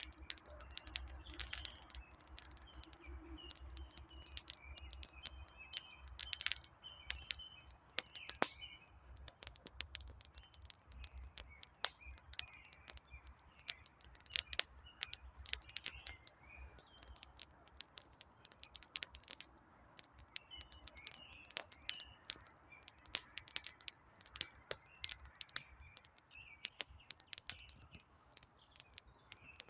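Wood fire crackling with many irregular sharp snaps and pops, while small birds chirp repeatedly in the background.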